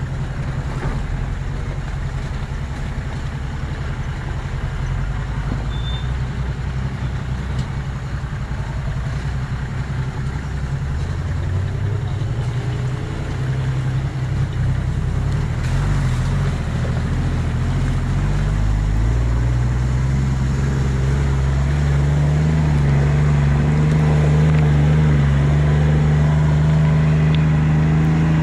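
4x4 off-road vehicle driving, its engine note climbing in pitch and getting a little louder about halfway through, then holding steady near the end.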